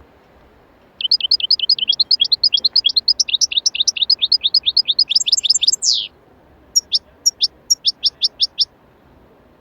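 A small bird chirping: a fast run of high, sweeping chirps lasting about five seconds and ending in a falling note, then after a short pause a slower series of separate chirps.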